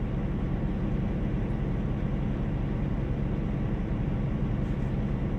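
Steady, even drone of a semi-truck's engine and running noise heard from inside the cab.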